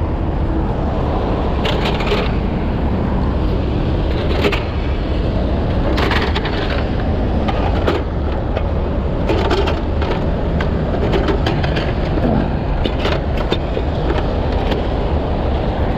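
A heavy diesel tow-truck engine runs steadily with a low rumble, while sharp knocks and cracks sound now and then, about half a dozen clusters, as steel rigging is worked.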